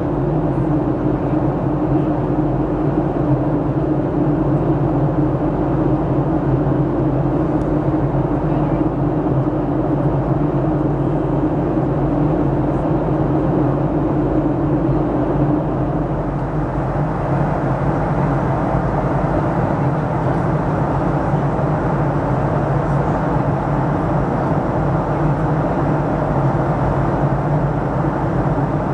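Steady cabin noise inside a Boeing 737-700 in flight: the rush of air along the fuselage with the drone of its CFM56-7B engines. A humming tone in it eases slightly about halfway through.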